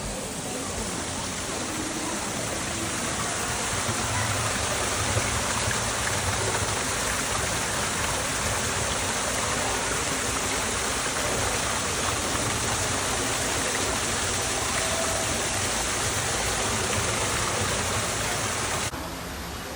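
Steady rush of falling or running water, like a waterfall in an indoor rainforest exhibit, dropping away suddenly near the end.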